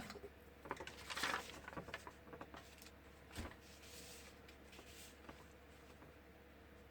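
Faint rustling and rubbing of paper as two book pages are glued and pressed together, with one light knock about three and a half seconds in.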